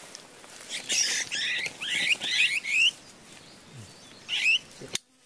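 A bird calling: a quick run of about six rising chirps, then one more a little later, with a sharp click near the end.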